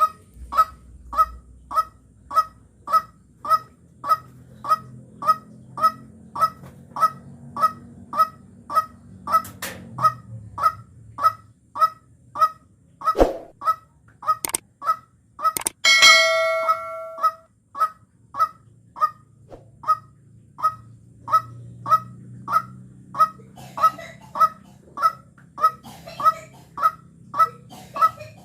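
White-breasted waterhen giving its honking call over and over, about two calls a second at an even pace. A sharp knock comes about halfway through, and a longer held call follows shortly after.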